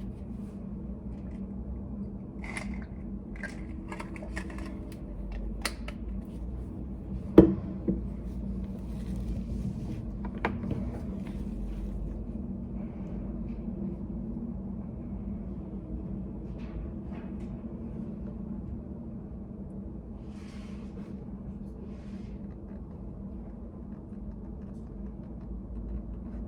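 Study-room ambience: a steady low hum with scattered small clicks and taps, the loudest a sharp knock about seven seconds in.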